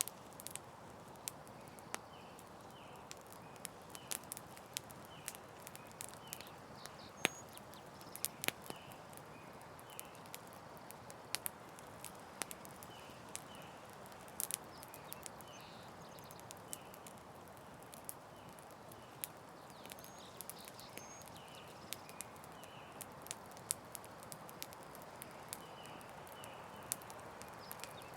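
Campfire burning with a steady hiss and frequent sharp crackles and pops at irregular intervals, over a faint, short, repeating sound higher up.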